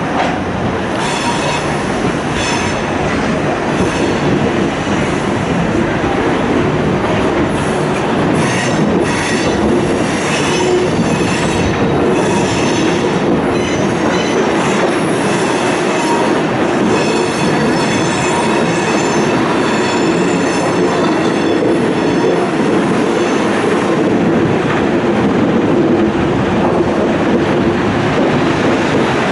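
Passenger train running along the track: a steady rumble of wheels on rail, with high wheel squeal coming and going through the middle stretch.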